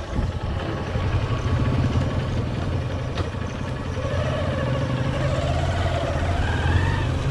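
Hero Hunk motorcycle's 150 cc single-cylinder four-stroke engine running steadily while the bike is ridden.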